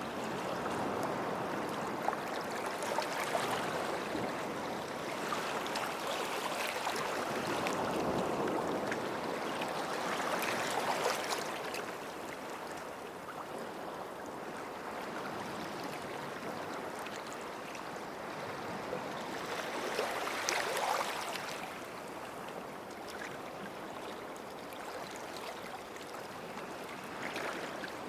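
Small sea waves washing onto the shore and draining back. The wash swells loudest from about two to twelve seconds in, and again briefly around twenty seconds.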